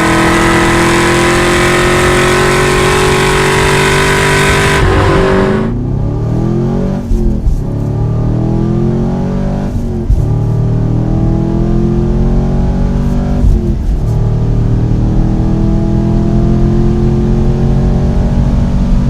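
A Camaro SS's 6.2-litre V8 through a Borla exhaust, pulling hard with the revs climbing steadily for about five seconds. It then lets off, the pitch falling and rising again several times through gear changes and throttle blips, before it runs on more evenly near the end.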